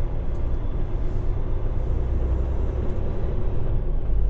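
Semi truck's diesel engine running with a steady low rumble, heard from inside the cab while driving.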